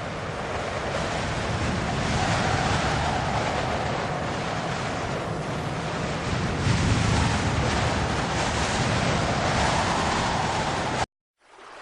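Steady rushing, wind-like noise with a low rumble underneath, cutting off abruptly near the end.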